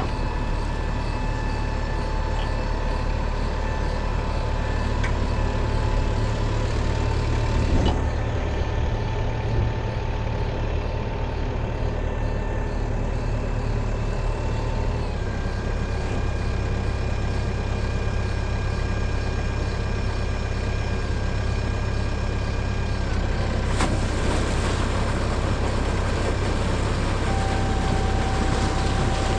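Tractor engine running steadily under power, its tone shifting a few times, about halfway through most plainly.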